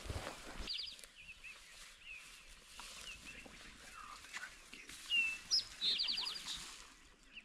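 Small songbirds chirping and trilling: a quick high trill about a second in, then a louder chirp and a second trill a little past the middle, with scattered softer chirps between. A brief rustle or footstep noise comes right at the start.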